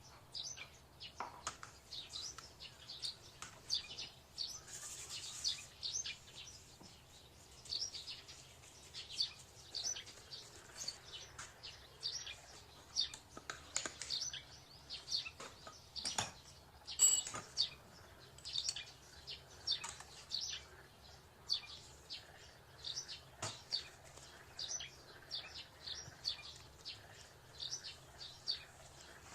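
A small bird chirping over and over, short high chirps two or three a second, with a few soft clicks and a faint low hum underneath.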